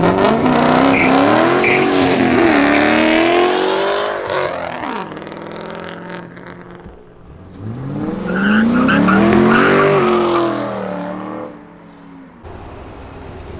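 Cars revving hard as they pull away, engine pitch climbing and dropping through the gears, in two loud runs: one at the start lasting about five seconds, another from about eight to eleven seconds in.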